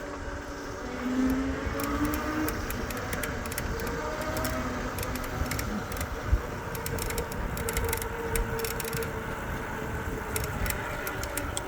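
E-bike riding noise: a faint motor whine that drifts a little in pitch over low wind rumble on the microphone, with scattered light clicks and rattles.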